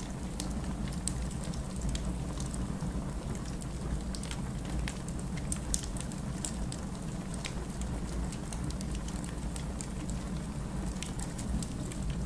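Wood fire crackling: scattered sharp pops and snaps over a steady low rumble, with one louder pop about halfway through.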